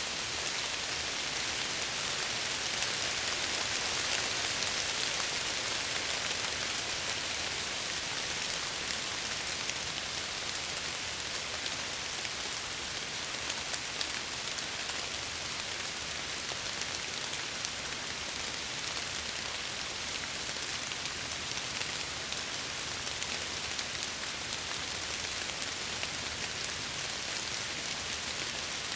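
Steady rain falling and pattering against window glass, an even hiss with scattered small drop ticks.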